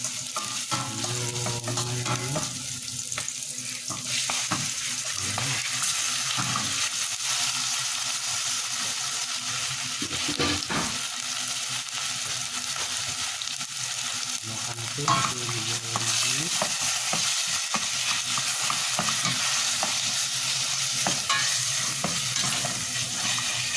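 Chicken pieces sizzling as they fry in a hot pan, with a spatula stirring and scraping them now and then.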